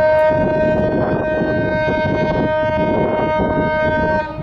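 A ship's horn sounding one long, steady blast that cuts off shortly before the end, over background noise from the harbour.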